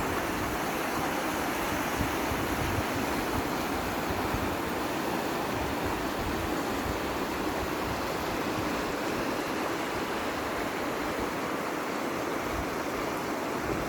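Floodwater rushing in a steady, even torrent.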